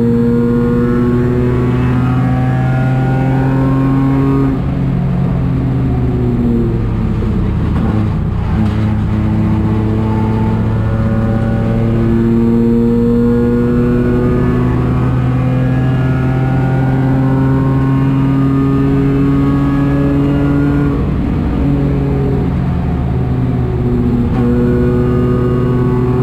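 Citroën C1 race car engine running hard on track. Its pitch climbs slowly through each gear and drops back at several gear changes.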